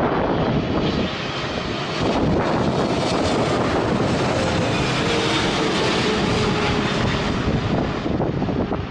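Boeing 777 jet engines going past, swelling to a peak midway and then fading, with a faint falling tone. Wind gusts buffet the microphone throughout.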